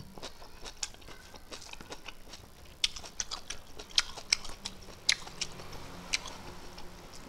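Close-up chewing and crunching of fried whole prawns, with irregular crisp crunches and wet mouth clicks, the sharpest between about three and five seconds in.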